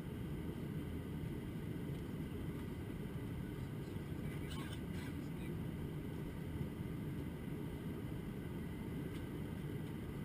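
Steady low rumble of an Airbus A321-200 airliner cabin in flight, engine and airflow noise, with a brief faint higher sound about halfway through.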